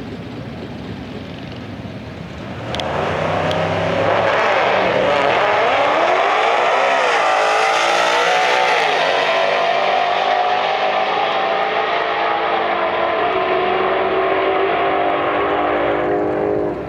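Twin-turbo big-block third-generation Camaro on a drag-strip pass: a lower rumble, then about three seconds in the engine comes on hard with a sudden jump in loudness. Its pitch climbs and drops several times at full throttle until the sound falls away near the end.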